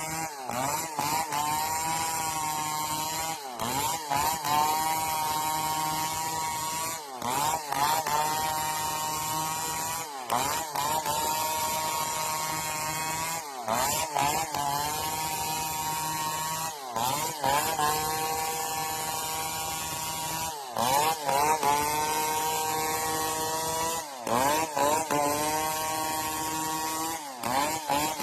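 Chainsaw engine running at high revs, its pitch dipping and recovering about every three and a half seconds as the chain is worked in and out of the wood.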